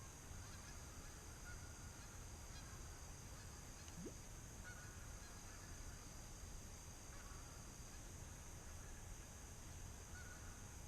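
Faint honking of geese: a few short calls spaced a few seconds apart over a steady background hiss, with a brief rising whistle about four seconds in.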